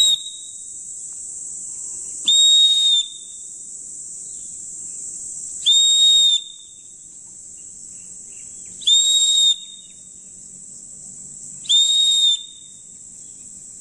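Survival whistle blown in short, steady-pitched blasts: one at the very start and four more about three seconds apart, each under a second long. It is sounding the six-blast international distress signal.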